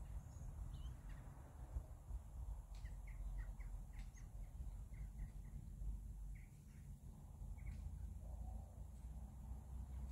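Small birds chirping, a quick run of short high chirps through the middle few seconds, over a faint steady low rumble.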